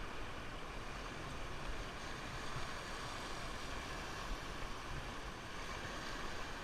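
Steady rush of river water around a raft, an even hiss without breaks.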